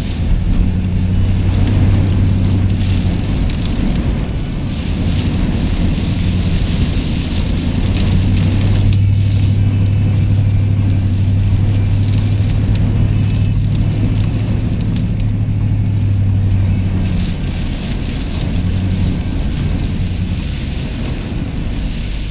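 Strong wind rushing and buffeting against a phone microphone in a car, over the steady low drone of the car's engine and tyres on the road.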